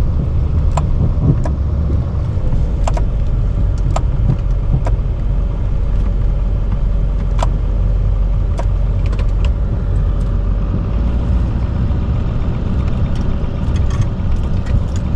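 Chevrolet K3500 dually's Duramax V8 turbodiesel running steadily while plowing snow, a dense low drone, with scattered sharp clicks and knocks over it.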